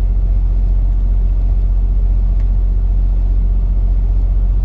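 Steady low rumble with no change in level.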